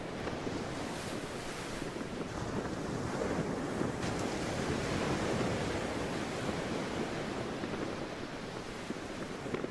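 Sea waves washing in a continuous rush of surf, swelling a little in the middle and easing toward the end.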